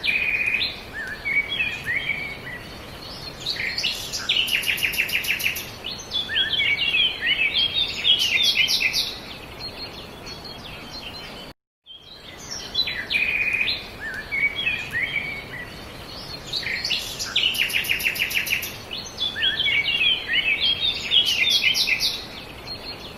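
Songbirds singing: a busy mix of chirps, short whistled glides and fast rattling trills over a steady background hiss. The same stretch of birdsong plays twice, with a brief gap of silence near the middle.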